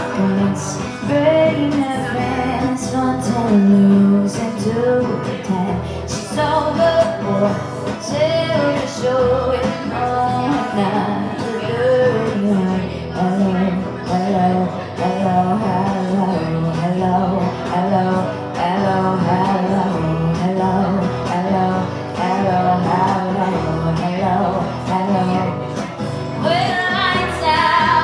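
A live country-style song played on acoustic guitar, with a singer's voice over it.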